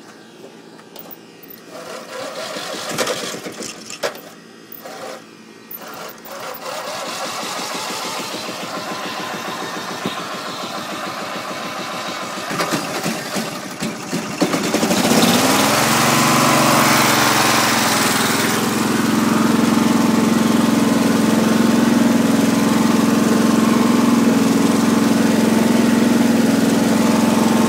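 Briggs & Stratton opposed-twin lawn tractor engine being started: the electric starter cranks it for several seconds, then it catches about halfway through, revs up and settles into steady running.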